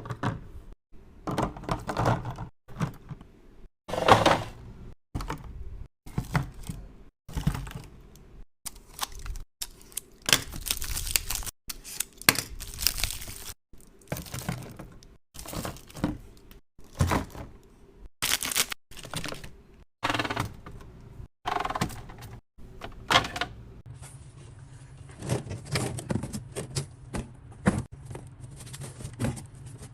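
Fridge-restocking sounds: plastic containers and food packages clacking, tapping and crinkling as they are handled and set down. The sounds come in short clips that cut off abruptly every second or so, with a low steady hum under them near the end.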